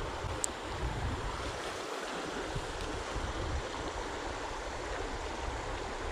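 Steady rush of creek water flowing, with a brief faint click shortly after the start.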